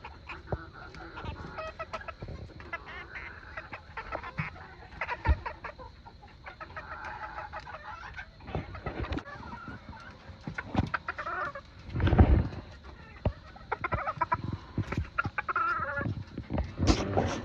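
Old English game bantams clucking on and off, with a few knocks among them, the loudest about twelve seconds in.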